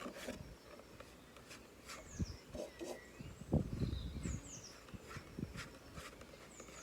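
Faint small-bird chirps, short high falling notes heard about four times, over soft knocks, clicks and rubbing from craft materials being handled on a table, the loudest knocks a little past halfway.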